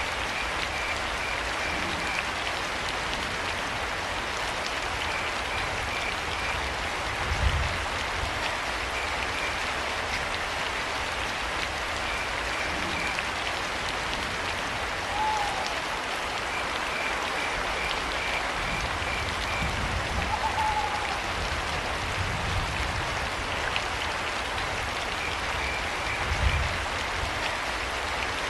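Steady rain falling, with crickets chirping in short runs of quick pulses every few seconds and an owl calling briefly twice around the middle. Two low thuds stand out, about a quarter of the way in and near the end.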